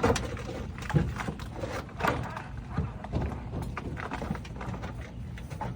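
Irregular knocks and thumps, about one a second, over a steady low hum.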